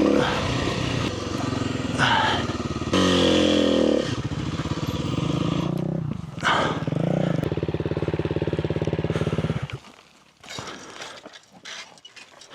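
Kawasaki KLX300R's single-cylinder four-stroke engine running and revving up and down, then cutting out suddenly about ten seconds in. After that only faint scattered knocks remain.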